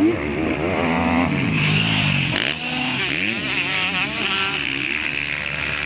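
Several 250cc motocross bikes racing past, their engines revving up and down as the riders work the throttle and shift, with the pitches of different bikes overlapping.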